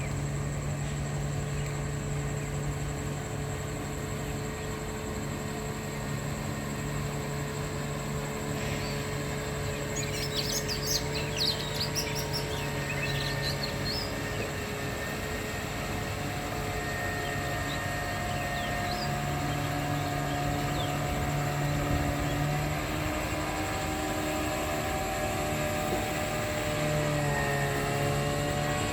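Boat engine running steadily, its pitch shifting slightly in the later part, with a short flurry of bird chirps about a third of the way in.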